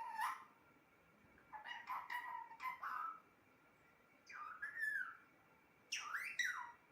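Pet parrot calling: four short bursts of squawky, whistle-like calls with quick rising and falling glides, separated by brief pauses.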